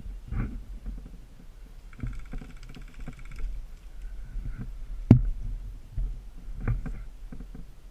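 Rustling and low thumps of a player's movement and gear on a body-worn microphone, with a brief pulsing high tone around two to three seconds in. One sharp crack about five seconds in is the loudest sound.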